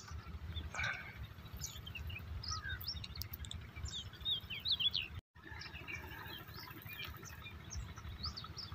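Small birds chirping, with many short high chirps scattered throughout, over a steady low rumble. The sound drops out completely for a moment about five seconds in.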